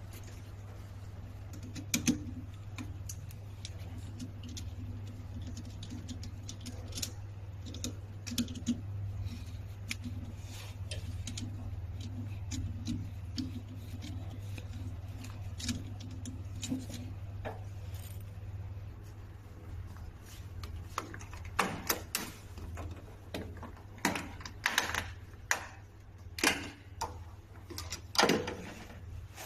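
Scattered sharp clicks and small metallic clatters from tools and hardware being handled while wiring is taken apart, thicker and louder in the last several seconds. A steady low hum runs underneath.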